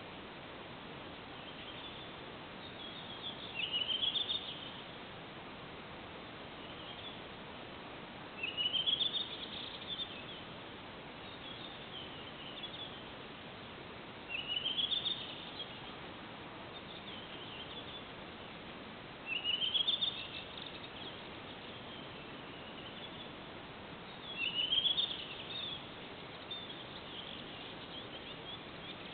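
A songbird repeating a short song phrase five times, about every five seconds: a quick run of notes rising in pitch, trailed by a softer twitter, over a steady background hiss.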